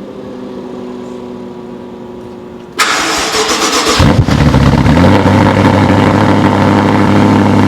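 Wiesmann MF5's BMW S85 5.0-litre V10 with a Lector exhaust being started: a burst of starter cranking about three seconds in, then the engine fires about a second later and settles into a loud, steady fast idle.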